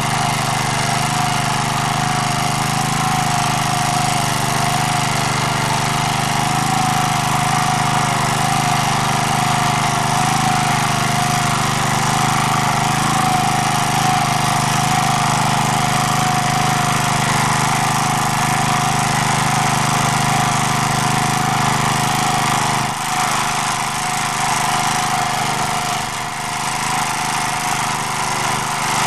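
Walk-behind tractor engine running steadily in first gear while its rotary tiller churns the soil, with a loudness that dips briefly twice near the end.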